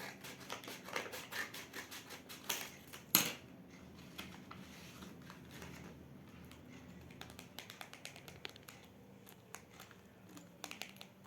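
Small objects being handled and unpacked: a run of light clicks, taps and scratches, with one sharper click about three seconds in.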